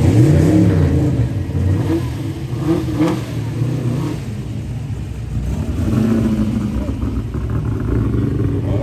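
Fox-body Mustang V8 with a loud aftermarket exhaust running at low revs as the car drives through, with a short rise and fall in engine pitch in the first second.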